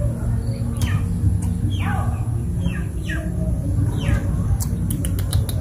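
A bird chirping repeatedly: short calls sliding downward in pitch, about one a second, over a steady low rumble. A quick run of sharp clicks comes near the end.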